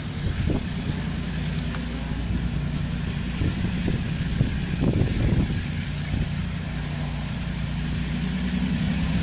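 Diesel locomotive engines running steadily with a low, even drone. Wind buffets the microphone in gusts.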